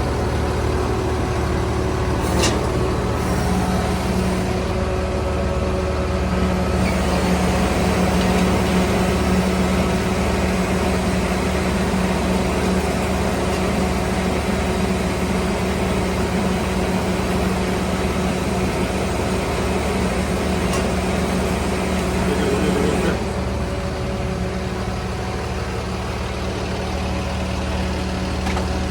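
Jet fuel truck's engine running steadily, with a single click about two seconds in. A rushing noise joins about seven seconds in and stops about twenty-three seconds in, when the overall level drops slightly.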